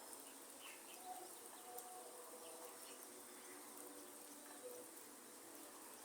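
Faint rainforest ambience: a steady high insect drone over a soft rain hiss, with a few short bird chirps and calls scattered through it.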